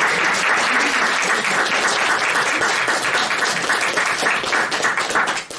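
Audience applauding steadily at the end of a talk, many hands clapping together; the applause cuts off suddenly at the end.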